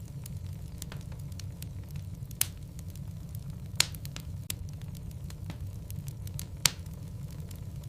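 Wood logs burning in a fireplace: a steady low rumble of flames with frequent small crackles and three sharp pops.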